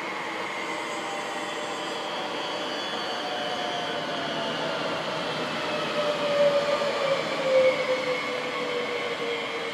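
Double-deck electric regional train running past on the track: a steady rail rumble under several whining motor tones that slowly fall in pitch, loudest about six to eight seconds in.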